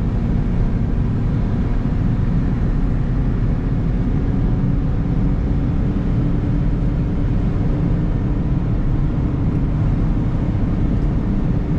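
Steady road and engine noise heard inside a moving car's cabin: a constant low rumble with a faint steady hum.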